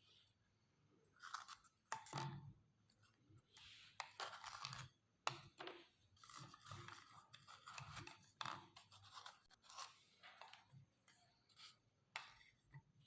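Meat grinder crunching and scraping through crisp ice cream cones, in irregular bursts of crackling with a few sharp clicks.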